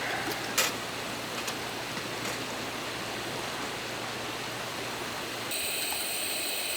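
Steady rushing hiss, like running water, with a sharp click about half a second in and a few fainter clicks later; the sound changes character about five and a half seconds in.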